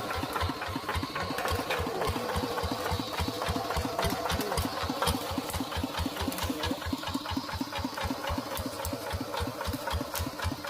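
Tractor diesel engine running steadily, its slow, even firing pulses at about six or seven a second.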